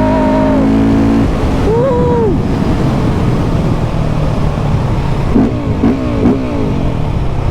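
KTM 690 SMC R single-cylinder engine on the move: held at steady high revs, then the throttle shuts about a second in, followed by one short rev rise and fall and, later, three quick rev blips in a row.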